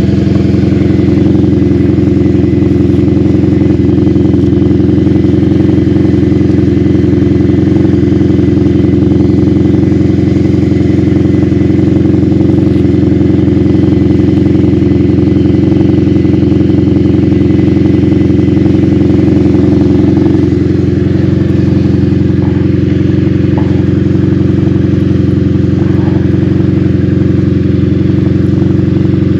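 1986 Honda Magna V45's liquid-cooled 750 cc V4 engine running steadily as the motorcycle is ridden. Its note eases off slightly about two-thirds of the way through.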